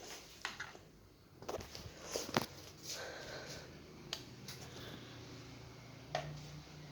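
Ventisol Wind Comercial ceiling fan's motor starting to hum low and steady partway through, growing louder near the end, amid a few sharp clicks and knocks of handling.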